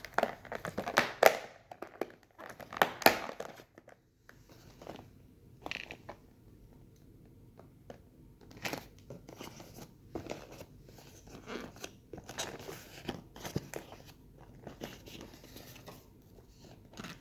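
Plastic food packaging crinkling and rustling as it is unwrapped, in irregular bursts, loudest in the first three seconds and softer and scattered after.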